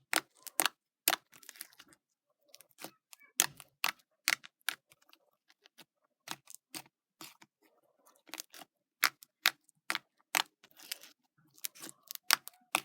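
Slime being handled, giving off irregular sharp clicks and pops, a few a second with short pauses.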